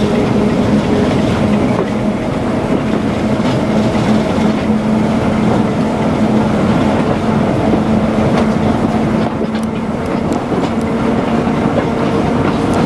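Diesel train running along the track, its engine giving a steady drone over the noise of wheels on rail.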